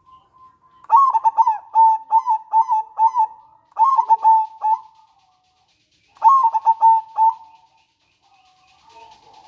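Zebra dove (perkutut) singing: two phrases of quick staccato coos, about four or five notes a second, the first running about four seconds and the second just over a second.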